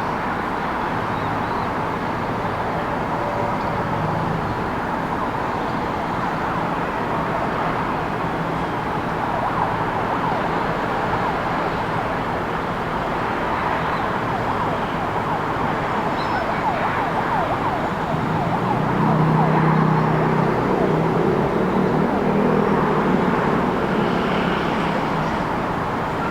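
City street ambience: a steady wash of traffic noise, with a vehicle passing louder about nineteen seconds in.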